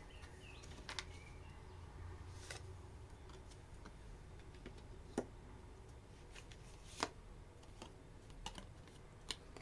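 Faint, scattered clicks and taps, about six over nine seconds, over a low hum: tarot cards being handled and laid out on a table.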